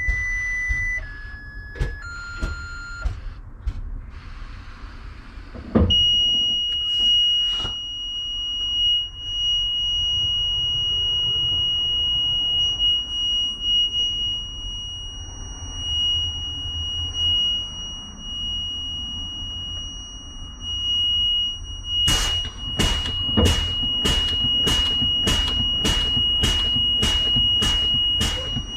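Cat C7 diesel of a Blue Bird school bus idling low, with a few short beeps stepping down in pitch at the start. About six seconds in, a steady high-pitched dashboard warning buzzer comes on and holds, and near the end a sharp rhythmic clicking joins it, about two clicks a second, like a turn-signal or hazard flasher.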